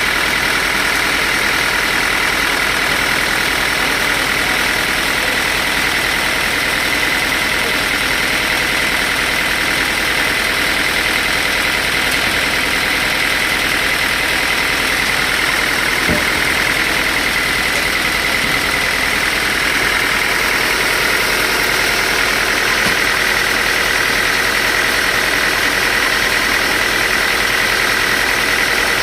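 Sawmill machinery running steadily, with a constant high whine over a dense mechanical noise.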